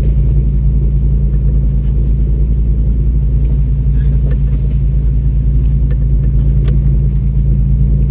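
Off-road vehicle's engine running at a low, steady speed as it crawls a rough trail: a deep, even drone with a few faint clicks and knocks.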